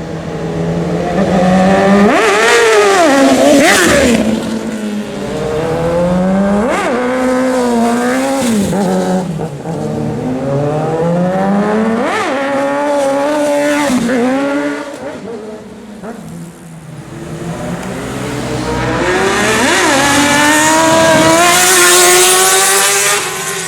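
Sport motorcycle engines revving hard and accelerating past, over and over: the pitch climbs sharply and falls back several times, with the loudest, brightest pass building toward the end.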